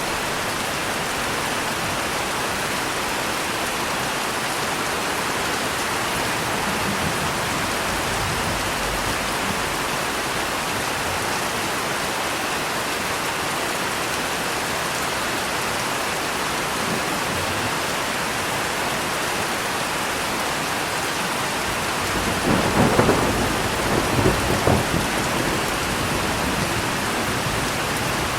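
Steady rain falling, with a roll of thunder rumbling for about three seconds near the end.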